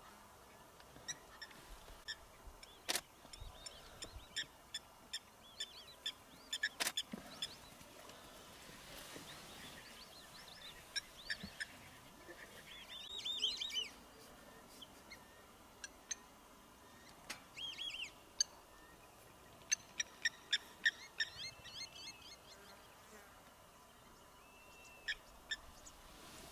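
Wild birds calling: many short, high chirps and trills scattered through, with two sharp clicks in the first third.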